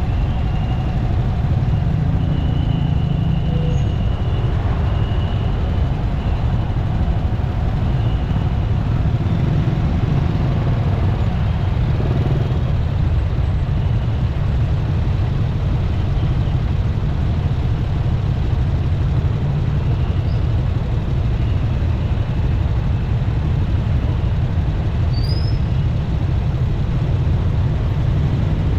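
Motorcycle riding through busy city traffic: a steady low rumble of engine, road and passing-vehicle noise.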